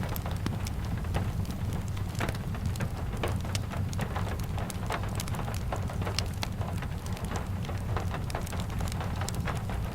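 Steady rain falling with a constant low rumble, mixed with the irregular sharp crackles and pops of a wood fire.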